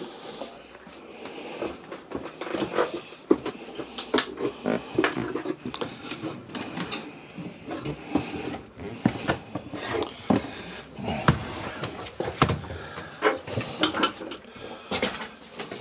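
Irregular knocks, clicks and bumps in a small enclosed room, several a second at times, with no steady machine sound underneath.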